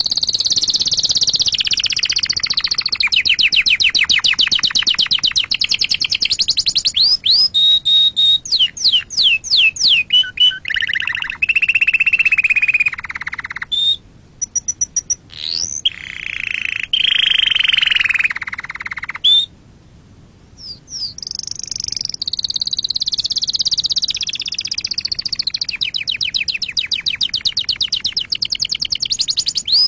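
Domestic canary singing a long continuous song of rapid trills, fast repeated chirps and rolling warbled phrases, with short pauses about 14 and 20 seconds in.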